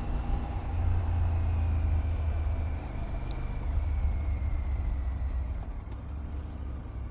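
Motorcycle underway on the road: a steady low engine rumble with road and wind noise, easing off a little in the last couple of seconds.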